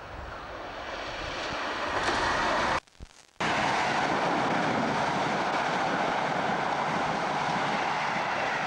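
A diesel-hauled passenger train approaching and passing at speed. The sound grows louder over the first two seconds as the locomotive nears, cuts out briefly about three seconds in, then becomes a steady loud rush of coach wheels on the rails as the carriages pass close by.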